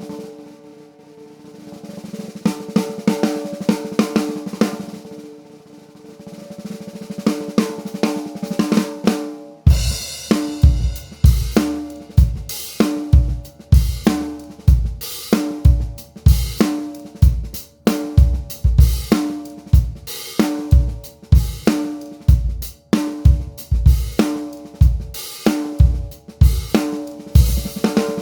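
Drum kit featuring a 14x6.5 brass snare drum with a ringing tone. It starts with soft, rapid strokes on snare and cymbals that swell in loudness. About ten seconds in, it breaks into a steady groove with regular bass drum hits, snare backbeats and cymbals.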